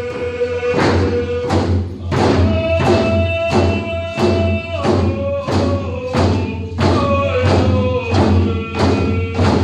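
Native Pacific Northwest Coast song: hand drums beaten together in a steady beat, about three strikes every two seconds, under a group of voices singing long held notes.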